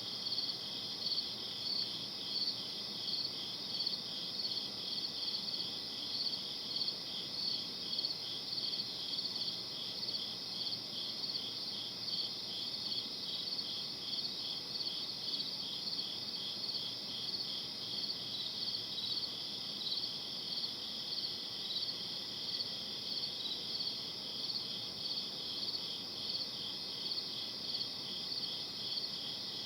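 Crickets chirping in a steady night chorus, with even, high-pitched pulses repeating a few times a second.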